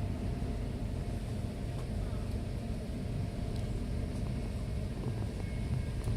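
V/Line passenger carriage running along the track, heard from on board: a steady low rumble of wheels and running gear with a few faint clicks.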